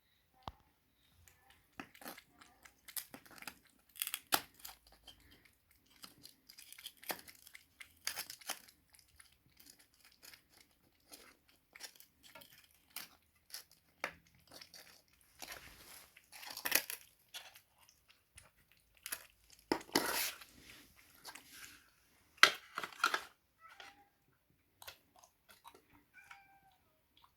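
Cats chewing and crunching food in quick, irregular bites, with louder crunches now and then.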